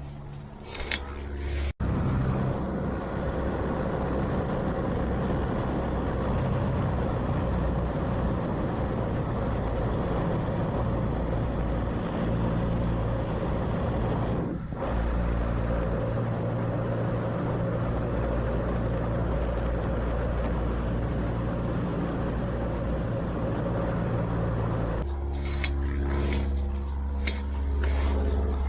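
Steady engine drone and rushing wind of a de Havilland Tiger Moth biplane in flight, heard from the open cockpit. It starts abruptly about 2 seconds in and cuts off abruptly near the end.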